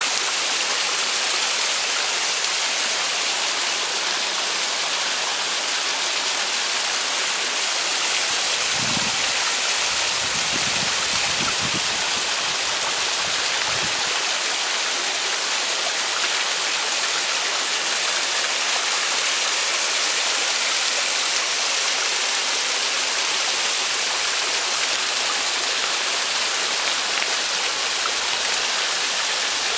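Small waterfall splashing steadily, a constant hiss of falling water. A few brief low rumbles come partway through.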